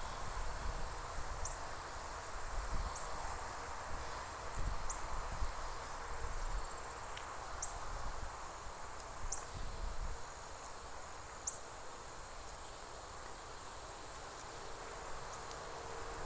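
Insects trilling in one steady, very high continuous tone, with short high chirps every second or two and a low rumble underneath.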